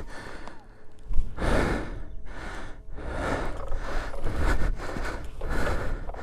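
A person breathing hard close to the microphone, a heavy gasping breath about every second and a half: out of breath from exertion.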